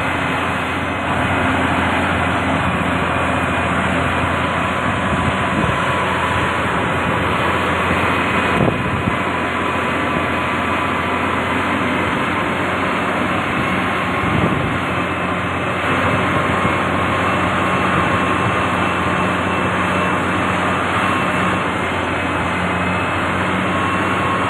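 Diesel engines of heavy road-building machinery running steadily under work, with faint high whines above the engine note and two brief knocks, about a third and a little over halfway through.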